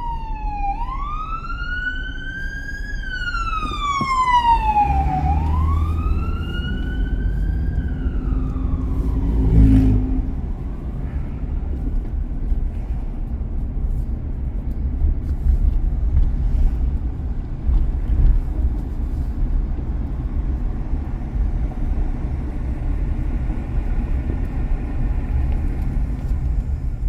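Emergency vehicle siren wailing, its pitch sweeping slowly up and down about four times before fading out about ten seconds in, over the steady road noise of a car driving. A thump is heard about ten seconds in.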